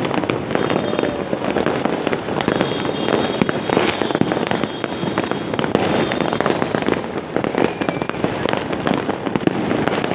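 Dense fireworks display: a continuous rapid crackle of many overlapping bangs and pops, with no pause.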